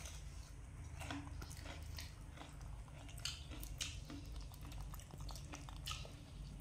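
Close chewing and wet mouth clicks of people and a baby monkey eating fried banana cakes, the smacks coming irregularly over a low steady hum.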